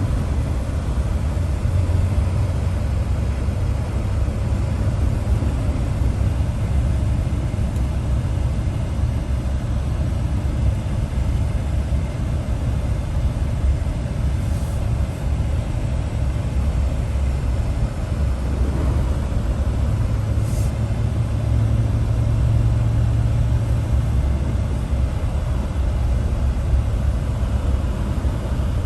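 Steady low rumble of a vehicle on the move, the engine and road noise heard from inside.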